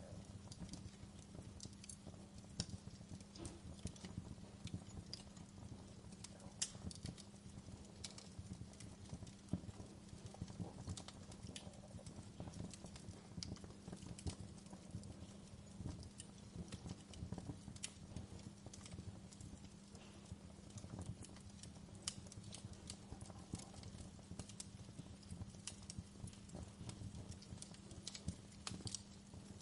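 Wood fire crackling with scattered sharp pops over a low, steady rumble and hum.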